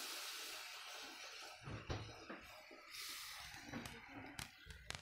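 Faint sizzling of an onion-tomato masala frying in a pan, fading over the first couple of seconds, with soft scrapes and taps of a spatula stirring it.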